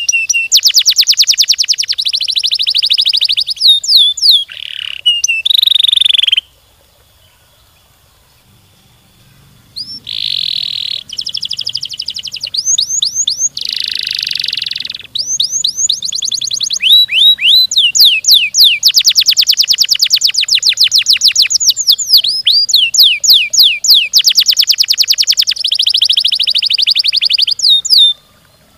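Domestic canary singing long, fast trills of rapidly repeated notes mixed with falling whistled notes, loud and high-pitched, with a gap of about three seconds a quarter of the way in.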